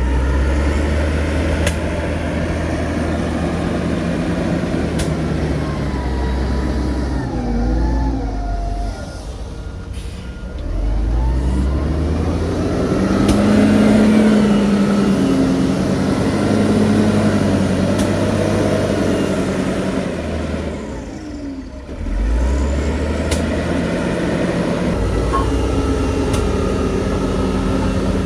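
Heavy diesel engines of earthmoving machinery working under load, the engine note rising and falling as they rev up and ease off. The engines drop back briefly twice.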